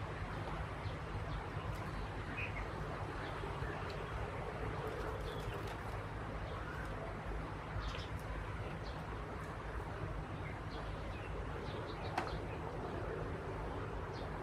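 Scattered short, high chirps from small birds over steady outdoor background noise with a low hum underneath.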